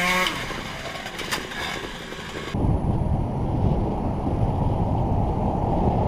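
Motorcycle riding noise picked up by a riding camera: a rushing wash with a couple of sharp knocks. About two and a half seconds in it cuts abruptly to a heavy, low rumble of wind buffeting the microphone.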